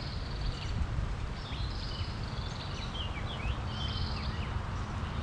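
A bird calling repeatedly in short high chirping phrases with quick falling notes, over a steady low rumble.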